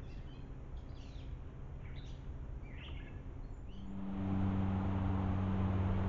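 Birds chirping faintly outdoors, several short chirps over the first few seconds. About four seconds in, a steady low hum with hiss sets in and continues.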